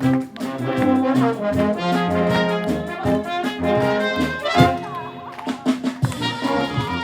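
Wind band playing live, with brass (trumpets and trombones) carrying sustained chords over a regular drum beat.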